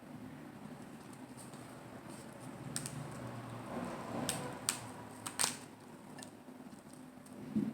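Close-up chewing of crisp lettuce salad wraps, with a few sharp wet crunches and mouth clicks around the middle.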